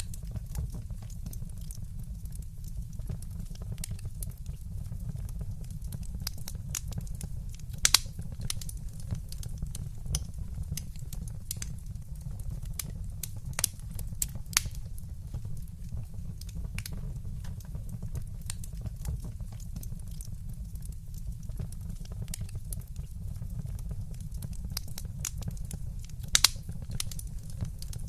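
Wood fire burning in a fireplace: a constant stream of small crackles over a low steady rumble, with a few louder, sharper pops scattered through.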